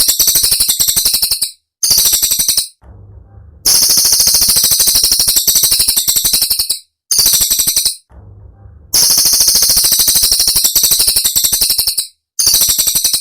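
A cililin songbird giving its rapid, sharp 'tembakan' song: fast, high-pitched rattling trills in bursts of one to three seconds, broken by short pauses.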